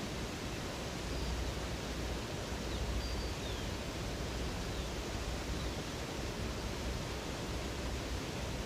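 Steady rush of flowing river water. A few faint, short, high chirps come through in the first half.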